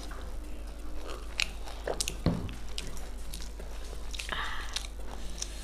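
Close-miked eating sounds: biting and chewing, with a few crunchy bites and wet mouth clicks scattered through.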